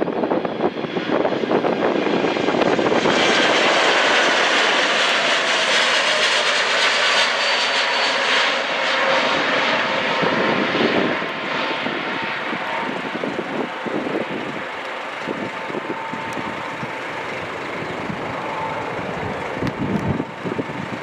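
Jet airliner's engines passing close by, swelling to their loudest a few seconds in with a whine over the noise, then slowly fading.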